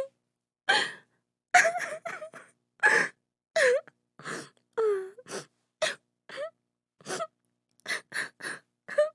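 A woman crying: a rapid series of gasping sobs and short cries with a wavering pitch, each broken off by a brief pause.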